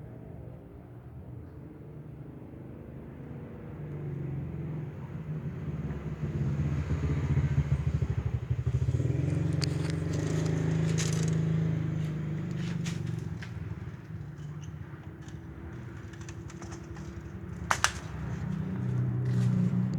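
An engine running, getting louder toward the middle and easing off again, with scattered sharp clicks and a loud double click near the end.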